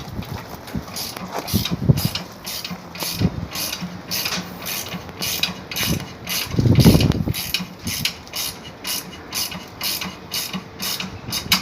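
A ratchet clicking steadily at about three clicks a second, with a louder low thud about seven seconds in.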